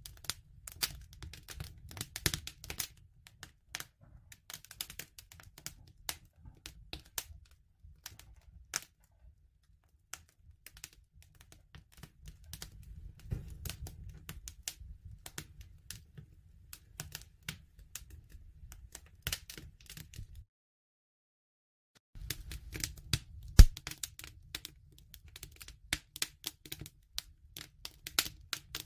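Wood fire crackling, with irregular sharp pops and snaps over a low rumble. The sound cuts out completely for about two seconds past the middle, then resumes, and one loud pop follows shortly after.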